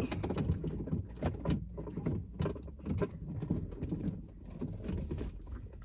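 Irregular clicks, taps and knocks of a plastic car accessory being handled and pressed into place, over a low steady hum.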